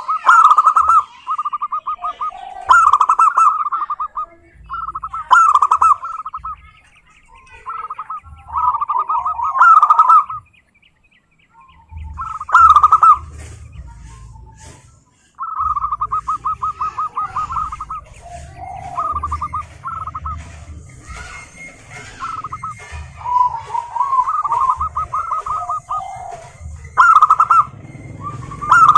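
Zebra doves (perkutut) cooing: repeated phrases of rapid, trilled coos, some overlapping. A low rumble runs underneath from about halfway through.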